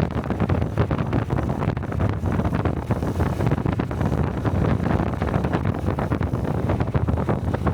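Honda Cub's 125 cc single-cylinder engine running steadily while riding, its exhaust note mixed with wind buffeting a helmet-mounted microphone.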